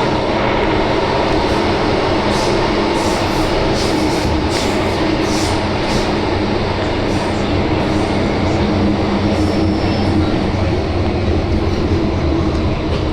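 MTR Island Line M-train running at speed in its underground tunnel: a steady, loud rumble of wheels on rail and traction motor hum. A run of short high clicks comes in the first half.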